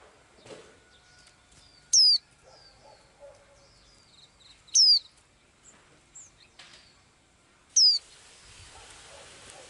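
A small songbird calling: a short, sharp whistled note that sweeps downward in pitch, given three times, about three seconds apart. There are faint ticks and a soft knock between the calls.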